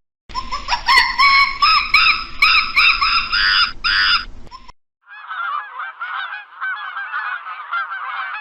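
Birds calling: a run of loud, repeated calls, about two a second, for some four seconds. After a brief break comes a dense chatter of many small, quick chirps.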